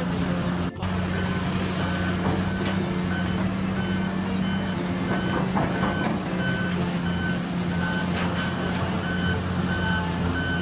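Construction machine's backup alarm beeping steadily in even short beeps over the drone of its diesel engine.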